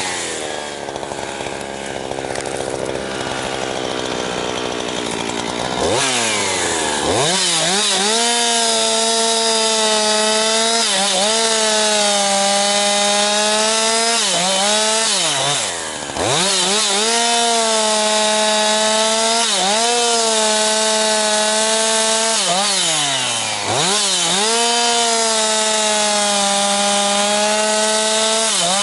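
Jonsered 2156 two-stroke chainsaw, with a freshly rebuilt Walbro HDA199 carburetor, cutting firewood. It runs low for the first few seconds, then revs up to full throttle about six seconds in and stays there under load, easing off briefly between cuts several times.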